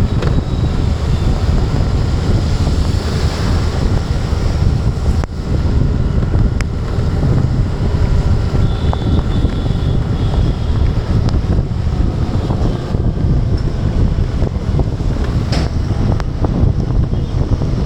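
Strong wind buffeting the microphone of a moving rider in the rain, a loud, steady low rumble, with a few sharp clicks scattered through it.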